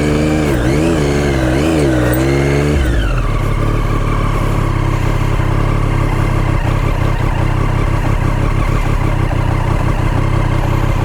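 Motorcycle engine on rough off-road ground, revs rising and falling in quick swells. About three seconds in the revs drop and it settles into a steady, lower running note.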